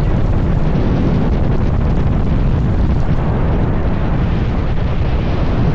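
Hurricane-force wind buffeting the microphone: a loud, steady, low rumble of wind noise with no letup.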